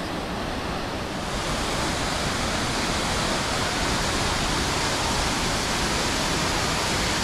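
Steady rushing of the Triberg waterfall's cascading water, an even roar of white water with no breaks.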